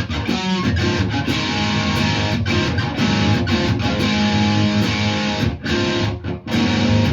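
Electric guitar strumming a blues riff on an A power chord, played with alternating up and down strokes rather than all downstrokes. A few short stops near the end.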